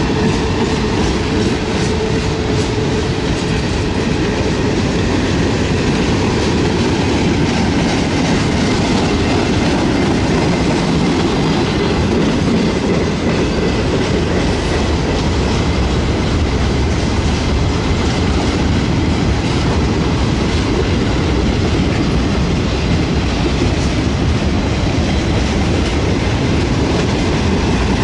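CSX freight train's boxcars rolling past at close range: a steady rumble of steel wheels on the rails, with repeated clicking as the wheels cross the rail joints.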